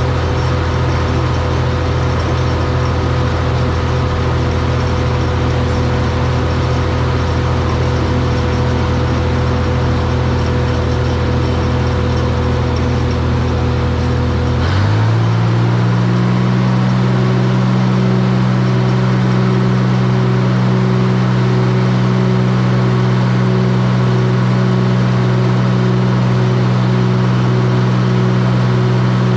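Combine harvester engine and machinery running at a steady drone; about halfway through the engine note rises quickly to a higher speed and holds there.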